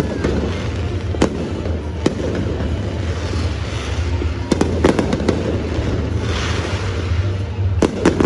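Fireworks show going off: scattered sharp bangs, two close together a little before halfway and two more near the end, with spells of crackling a few seconds in and again around two-thirds through.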